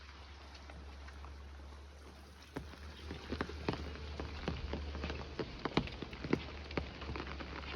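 Rain falling steadily, with individual drops tapping sharply on nearby surfaces; the drips come thicker and louder from about two and a half seconds in.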